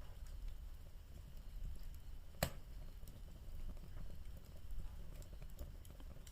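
Bonfire crackling, with scattered small snaps and one loud sharp pop about two and a half seconds in, over a low steady rumble.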